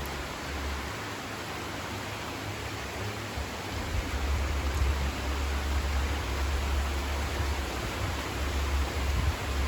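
Heavy rain pouring down, a steady even hiss. From about four seconds in a low rumble joins it and the whole gets a little louder.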